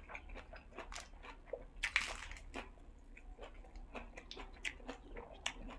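Close-up chewing and biting of food in the mouth: irregular crisp crunches and wet mouth clicks, with a louder crunch about two seconds in.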